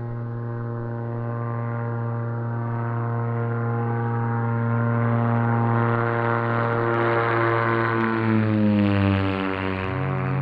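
Electric motor and propeller of a TBS Caipirinha FPV flying wing in flight, giving a steady droning hum. In the last couple of seconds its pitch starts to bend and waver.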